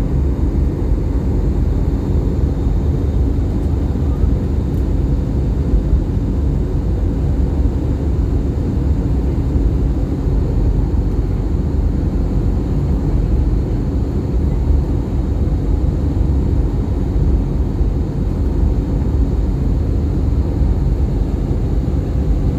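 Airbus A320 jet engines and airflow heard from inside the passenger cabin in flight: a steady low rumble with a faint constant hum over it.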